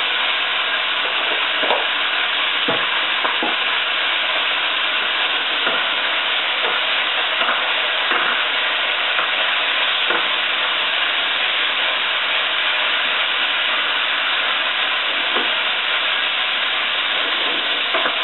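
Chicken pieces sizzling steadily in hot olive oil in a pot, stirred with a wooden spoon that gives a few light knocks against the pot.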